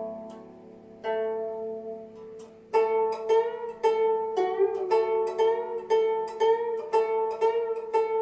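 Guzheng played solo: a couple of plucked notes ring out and fade, then about a third of the way in a lively run of plucked notes begins, about three a second, some of them bent in pitch by pressing the string.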